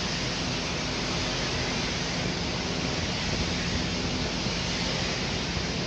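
Steady rushing noise of a DEMU train running, heard from an open door or window, with a faint low steady hum underneath.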